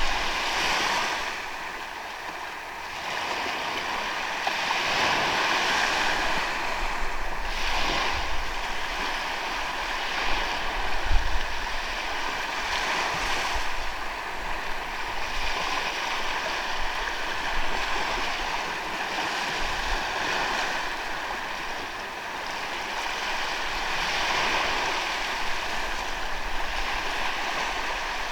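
Ocean waves washing onto the beach, the surf swelling and fading every few seconds.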